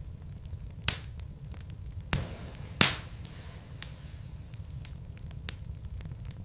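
Wood fire burning in a fireplace: logs crackling with scattered small snaps and three loud pops, the loudest near the middle, over a low steady rumble of the flames.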